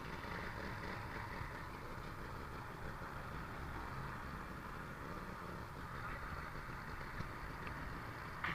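An engine running steadily with an even hum, and a brief sharp click near the end.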